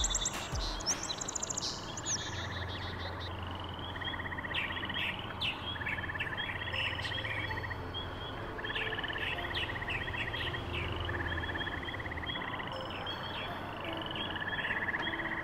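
Birds calling and singing: many short, sharp high chirps, with short buzzy trills coming back every second or two.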